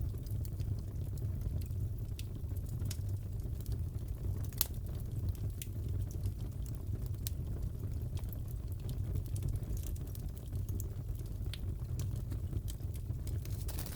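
Wood fire crackling in a fireplace: a steady low rumble with scattered sharp pops and snaps, one stronger pop about four and a half seconds in.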